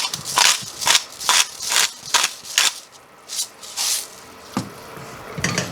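Salt being added to a pan of reducing rib glaze: a run of short, crisp rattling strokes, about two a second, that slow and thin out after about three seconds.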